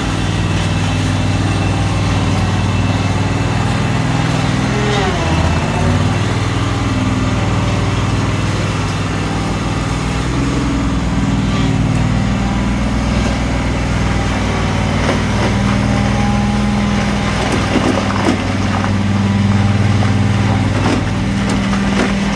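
Ride-on floor scraper running steadily while its blade strips cementitious self-levelling compound, with scattered cracking of the broken-up layer. The machine's pitch sags briefly about five seconds in and recovers, and the cracking grows busier in the last several seconds.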